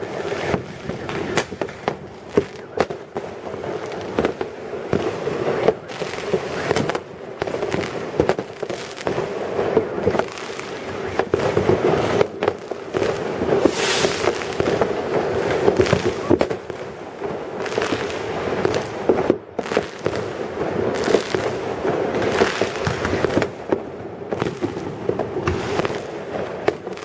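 Fireworks going off nonstop: a dense, irregular run of bangs and crackles with no pause, one especially sharp bang about fourteen seconds in.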